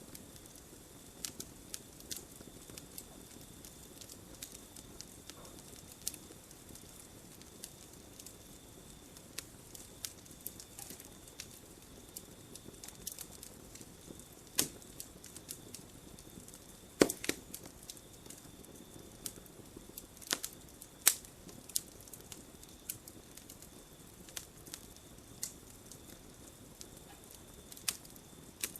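Campfire crackling: irregular sharp pops and snaps of burning wood over a low rustling burn, with a few much louder pops in the middle and later part. A faint steady high tone runs underneath.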